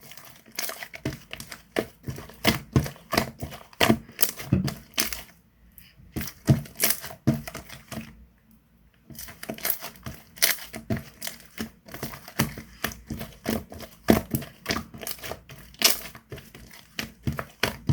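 Pink slime being squeezed and pressed by hand, giving a fast, irregular run of sticky pops and crackles from trapped air, with two short pauses partway through.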